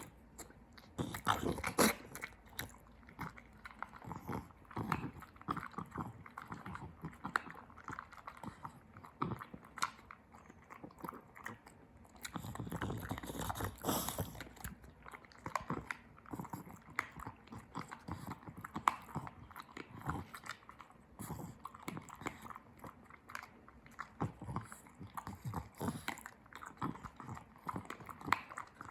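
A Frenchton puppy chewing and crunching food: irregular crunchy bites and chewing, busier in a couple of stretches.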